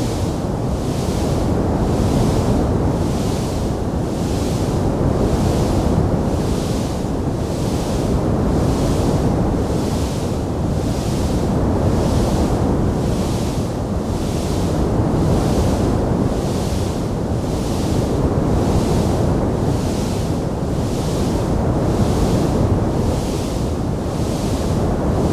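Fireplace fire sound track: a loud, steady rushing noise, with a high hiss that swells and fades evenly a little more than once a second. No distinct pops stand out.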